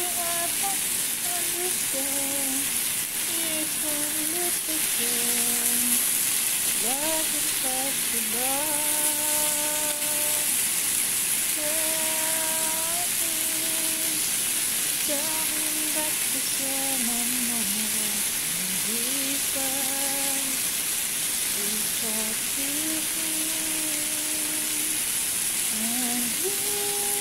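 Chicken breasts sizzling steadily as they fry in a pan, with a sung melody of held and gliding notes over it.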